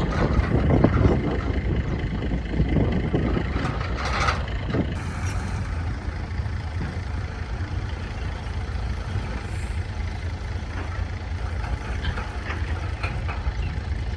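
Heavy diesel earthmoving machinery running steadily with a deep rumble. There are clattering knocks in the first few seconds and a short hiss about four seconds in.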